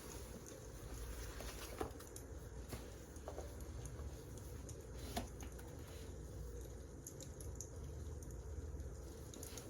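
Wood fire crackling: a steady low rumble with scattered small snaps and pops, two sharper pops about two and five seconds in.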